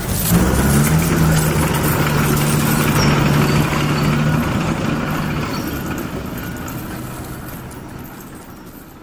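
A car engine running, loud at first and then steadily fading away over several seconds.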